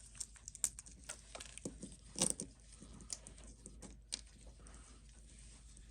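Faint, irregular small clicks and taps of a metal watch bracelet being worked off the case, the loudest a little past two seconds in.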